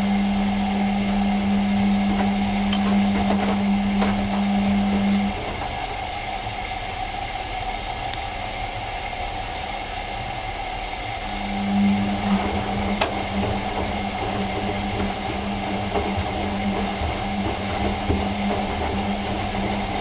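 Washing machine running, its motor humming steadily as the drum turns. The hum stops about five seconds in and starts again around eleven seconds, pulsing, with a few faint clicks.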